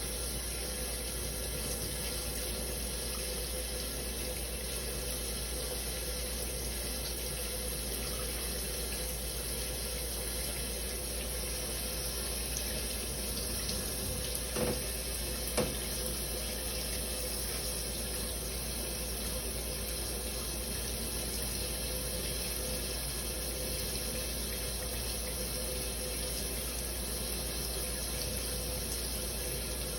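Shower spray running steadily, with two brief knocks about halfway through, about a second apart.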